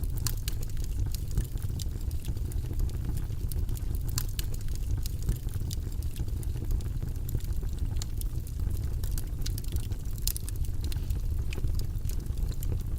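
A steady, deep, even noise track with scattered light, irregular clicks over it throughout.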